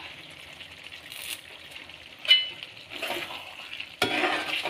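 Goat head meat frying dry in a pan with a low sizzle after curry leaves go in, and a spoon scraping and stirring: a short scrape about two seconds in and a longer, louder stir near the end.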